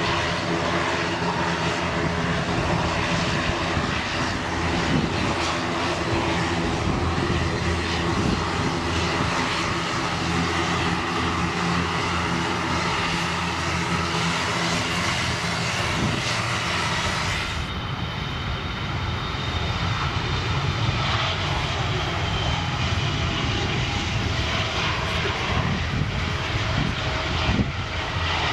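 Airliner engines running steadily at low power while the aircraft sits or creeps slowly, a constant rushing noise with a steady low hum of tones. About two thirds of the way through the sound turns abruptly duller.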